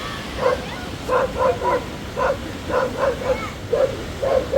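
A dog barking repeatedly, short barks coming about two to three a second.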